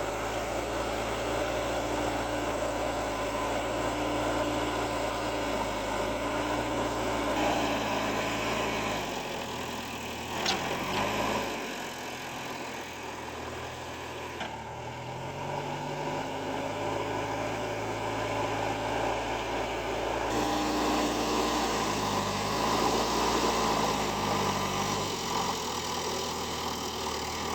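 An engine running steadily, its speed dropping and picking up again a few times. A short sharp click comes about ten seconds in.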